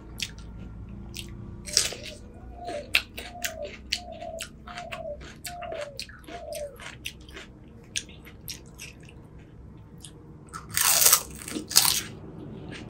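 Close-up crunching and chewing of crisp pani puri shells, with many sharp crunches and a louder, longer burst about eleven seconds in.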